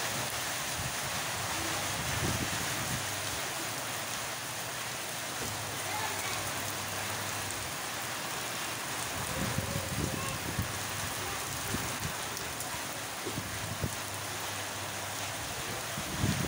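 Heavy rain falling, a steady even hiss, broken by a few brief low rumbles about two seconds in, around ten seconds in and at the very end.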